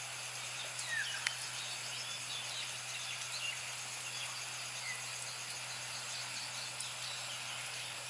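Outdoor ambience of a steady hiss and low hum with a faint continuous high insect trill, and a few short, high bird chirps about a second in, with fainter chirps a few seconds later.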